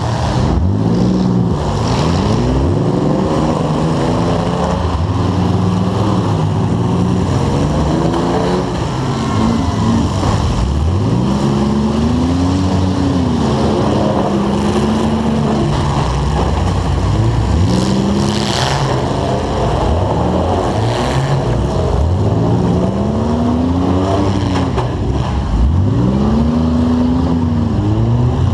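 Demolition derby car's engine, heard close from a camera mounted on the car, revving up and falling back over and over as the car accelerates, stops and reverses. A few short bangs come through, around two seconds in and about two-thirds of the way through.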